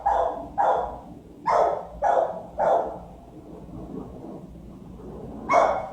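A dog barking: about five loud barks in quick succession, a pause of a few seconds, then another bark near the end.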